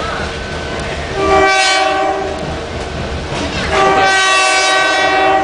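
Train horn sounding two blasts for a road crossing, a shorter one and then a long one, over the steady rumble of the moving train's cars on the rails.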